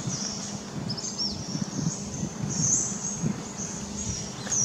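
High, thin bird chirps repeating over a steady low outdoor rumble, with a couple of short arching whistles about a second in and again near the end.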